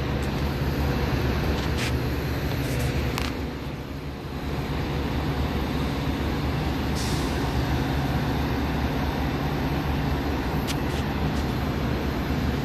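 Metra commuter train's diesel locomotive running steadily at the station with a deep engine hum, broken by a few brief high-pitched sounds.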